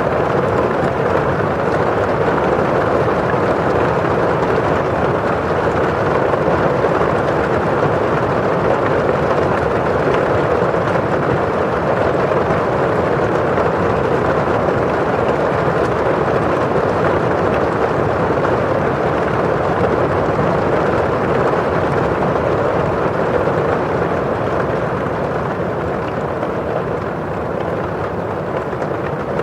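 Steady rain on a window pane, a constant even hiss with the rustle of rain falling outside, easing off slightly near the end.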